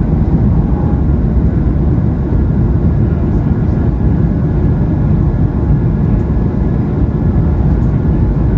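Cabin noise of an Airbus A220-300 departing, heard from inside the cabin: a loud, steady rumble from its Pratt & Whitney PW1500G geared turbofans and the wheels on the runway. A faint high engine whine comes in near the end.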